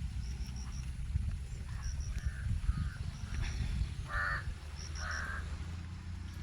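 Crows cawing, about five short caws, with another bird's quick high chirps in runs of three or four, over a steady low rumble.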